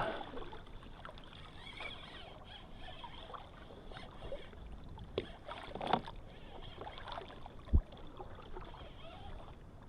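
Quiet sounds of a fishing kayak on the water: a faint steady wash with scattered small knocks and clicks, the loudest a sharp low thump near the end.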